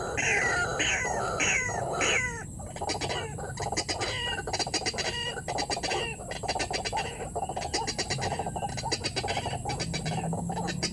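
White-breasted waterhen calling. A run of repeated downward-sliding calls, about two a second, gives way about two seconds in to a faster series of clicking, croaking calls.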